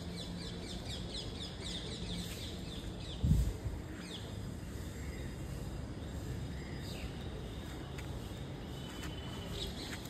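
Outdoor background noise with a quick run of high, falling bird chirps over the first couple of seconds and a few scattered chirps later. A single low thump about three seconds in.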